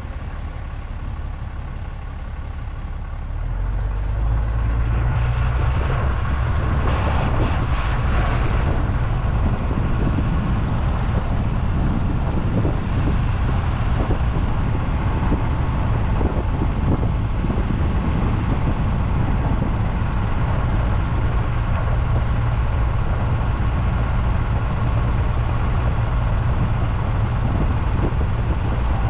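Road vehicle driving, its engine and tyres making a steady low rumble that grows louder about three and a half seconds in and then holds steady.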